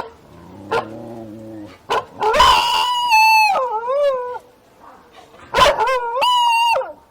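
An animal calling: a short low pitched sound, a few sharp clicks, then two long high-pitched calls, each held level and then falling away at its end.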